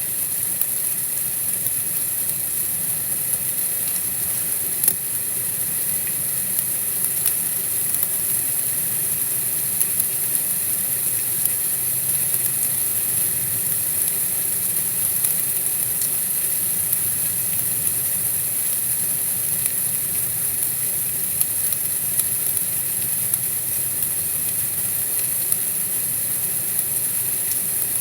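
Steady high hiss of an outdoor winter night ambience, with a faint low rumble under it and a few scattered small clicks.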